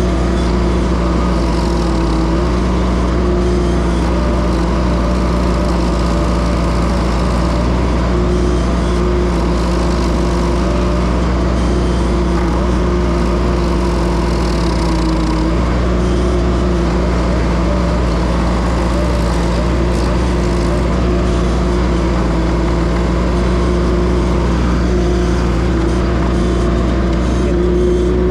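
Case TL100 mini track loader's engine running steadily at high throttle, driving a hydraulic stump grinder attachment.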